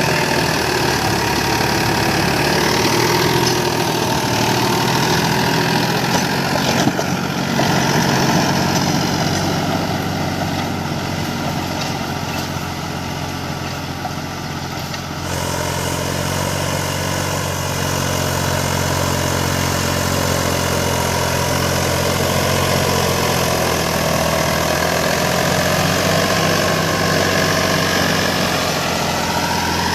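Mahindra 295 DI Turbo tractor's diesel engine running steadily. It eases off slightly for a few seconds in the middle, then changes note abruptly about halfway through.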